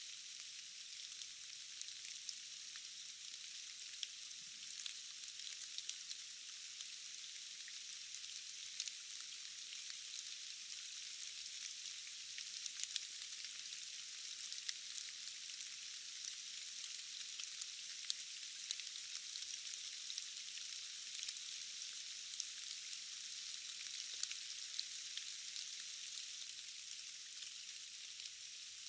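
Steady rain falling in a forest: a thin, even hiss of many drops, dotted with scattered sharper drip ticks.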